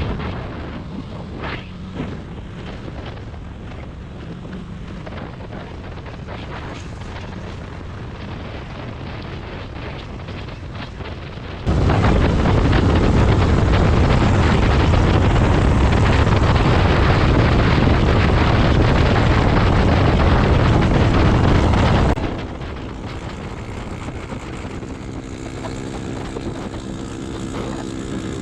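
Motorcycle ride heard from the rider's helmet microphone: engine running under a steady rush of wind noise. About halfway through the wind noise turns much louder for around ten seconds, starting and stopping suddenly.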